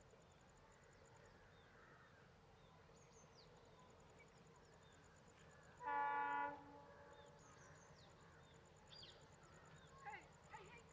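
One short blast of a train's locomotive horn about six seconds in, over a quiet background. Birds chirp near the end.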